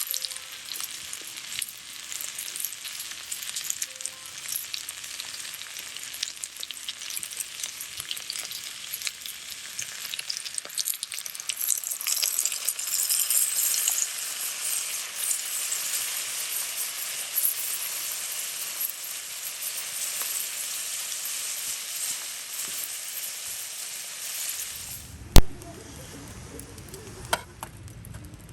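Lamb meat sizzling and spitting in a hot pan, with the sizzle swelling about halfway through. It stops abruptly near the end and gives way to a low rumble, with one sharp knock and then a smaller one.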